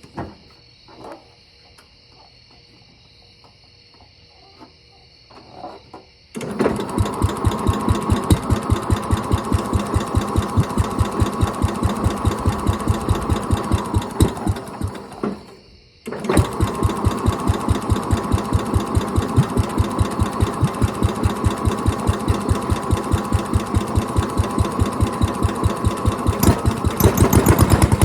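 Simplicity Landlord 3410 garden tractor's Briggs & Stratton single-cylinder engine firing up on its first start in decades, after its ignition points were cleaned and readjusted to cure a lack of spark. It catches about six seconds in and runs with a fast even beat, fades and dies about nine seconds later, then restarts at once and keeps running, getting louder near the end.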